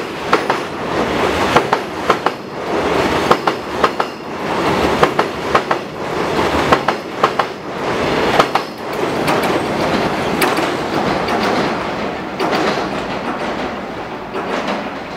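Container wagons of a freight train rolling past close by on a steel truss railway bridge: a steady rumble with repeated sharp clacks of wheels over the rail joints. The sound eases off near the end as the last wagons pull away.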